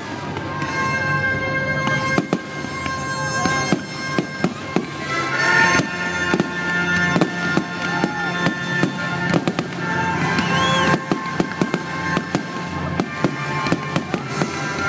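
Fireworks bursting in a rapid, irregular series of sharp bangs and crackles, over loud music with sustained droning tones.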